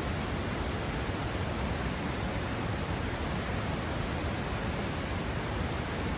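Waterfall on a creek: a steady rushing of falling water that cuts off abruptly at the very end.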